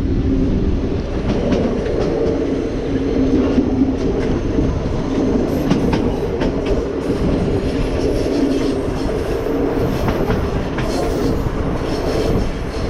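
Heritage train rolling on rails: a steady rumble with scattered clicks and clatter from the wheels and carriages.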